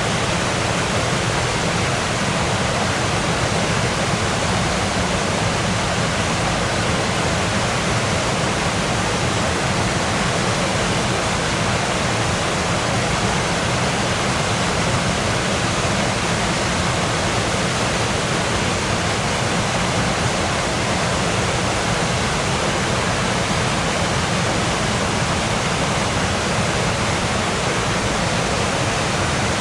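Waterfall: falling water rushing steadily, an even, unchanging wash of sound from deep lows to high hiss.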